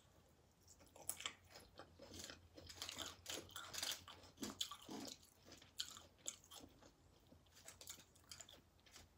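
Close-up chewing of a mouthful of loaded nachos, with many short crisp crunches of tortilla chips, thick for the first several seconds and then thinning out.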